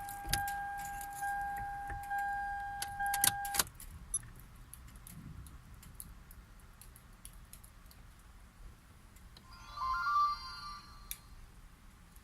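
Keys jangling and clicking, with a steady electronic warning tone that cuts off about three and a half seconds in. Then it goes quieter, with a brief warbling chirp near the end.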